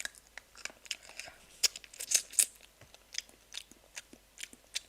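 A person chewing chicken feet, with irregular crunches from the small bones and cartilage. The loudest crunches come about two seconds in.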